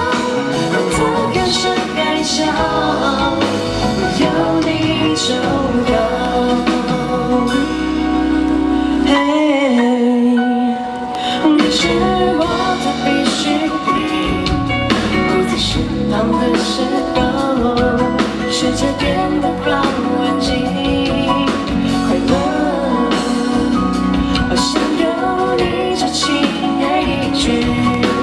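Live pop song played by a band, with a woman singing over it.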